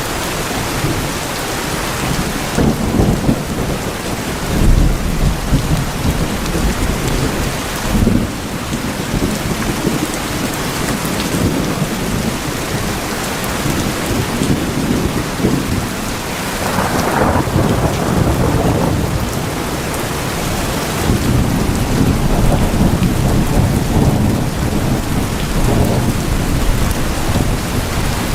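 Heavy, steady rain falling on tin roofs, a dense even hiss, with deep low rumbles that swell and fade several times.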